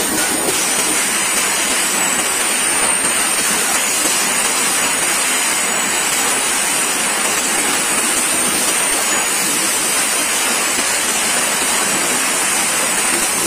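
Freight train wagons rolling over the track directly overhead: a steady rushing noise of steel wheels on the rails, with a faint high-pitched whine.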